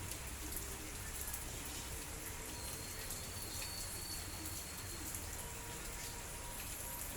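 Light drizzle falling, with a steady patter and scattered sharper drop hits.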